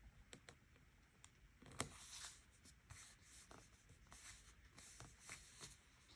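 Pen writing on paper: faint, scratchy strokes in short runs, with a few light taps.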